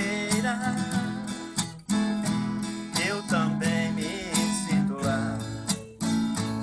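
Instrumental music: acoustic guitar strumming a steady rhythm, with a melody line above it that glides up and down.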